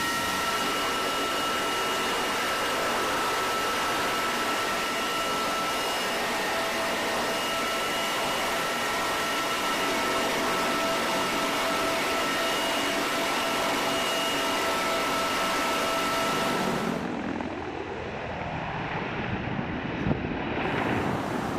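Military aircraft engines running steadily: a dense rushing noise with several steady high whine tones. About 17 seconds in it changes abruptly to a quieter, duller rushing sound, with one sharp knock near the end.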